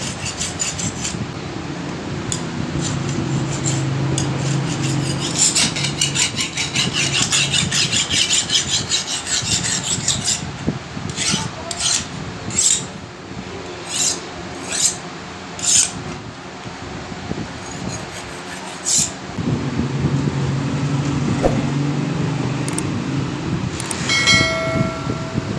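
Hand strokes of abrasive metal-on-steel rubbing on a knife blade being finished: a run of quick scraping strokes, then several single slower strokes about one a second. A brief metallic ring comes near the end.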